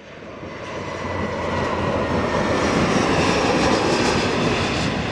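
Airliner passing close, its engine noise swelling quickly over the first second and loudest about three to four seconds in, with a faint high whine over the rush in the first couple of seconds.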